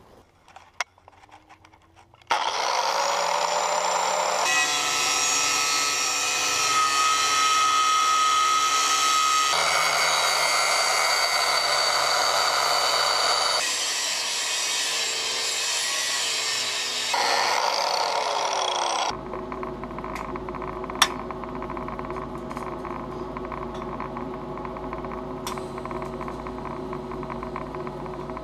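Electric angle grinder spinning up and grinding steel, its whine shifting in pitch as it is pressed into the work. It winds down and stops about two-thirds of the way through, leaving a quieter steady hum with a couple of clicks.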